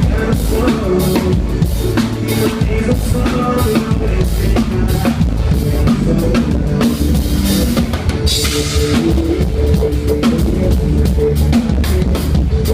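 Live band playing through the PA during a soundcheck, with the drum kit's bass drum and snare carrying a steady beat under the rest of the band. The high end brightens for about a second roughly two-thirds of the way in.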